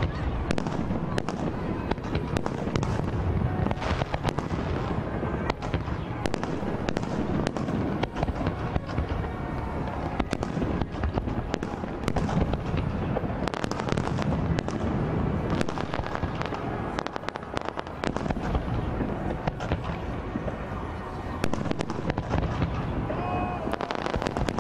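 Fireworks display: a dense, unbroken barrage of bangs and crackles, many a second, over a continuous rumble.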